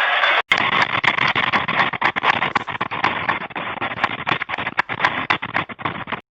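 Loud rattling and clattering: a dense noise full of sharp clicks and knocks, cutting off suddenly near the end.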